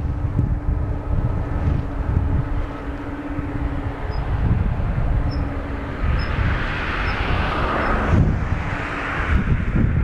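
Boeing 777-200 jet engines running at idle on the apron, against heavy wind rumble on the microphone. A steady hum holds for the first six seconds, then a hiss swells about six seconds in.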